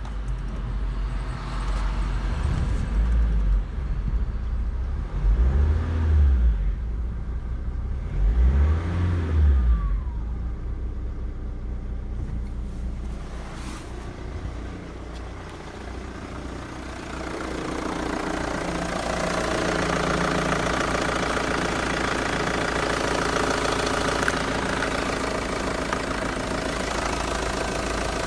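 Renault 1.9 dCi F9Q four-cylinder turbodiesel running, revved up and back down about twice in the first ten seconds, then held at a steady speed. The sound grows louder and fuller in the last third.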